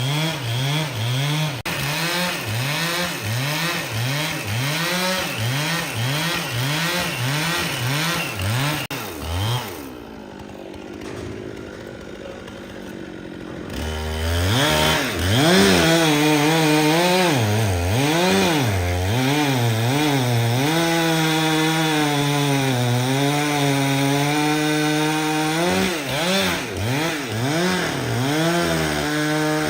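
Chainsaw engine running hard while cutting wood, its pitch dipping in a quick, even rhythm for the first nine seconds or so. About ten seconds in it drops quieter for a few seconds, then comes back loud with slower rises and falls in pitch.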